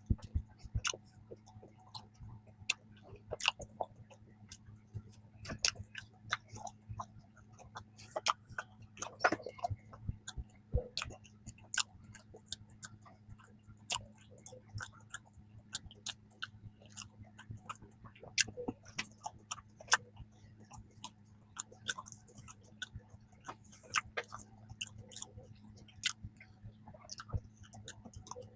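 Close-miked chewing of soft cream-filled bread: irregular wet mouth clicks, smacks and squishes.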